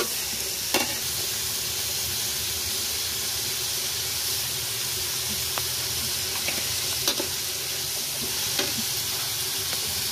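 Minced meat and garlic sizzling in hot oil in a steel wok, stirred with a spatula that scrapes and clicks sharply against the pan a few times.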